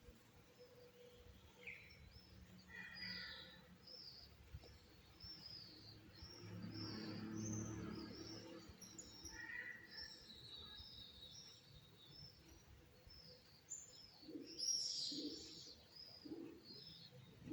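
Small songbirds chirping and twittering in rapid, overlapping high notes, faint and continuous, with a louder flurry near the end. A low rumble rises and fades about halfway through.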